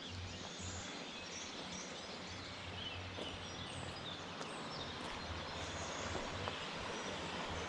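Scattered bird chirps over a steady outdoor background hiss.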